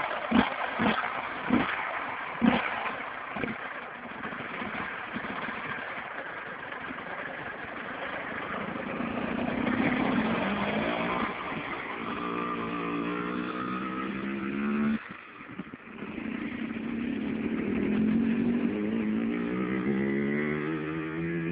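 Dirt bike engine running and revving, its pitch held and then rising in stretches over the second half. There are several sharp knocks in the first few seconds.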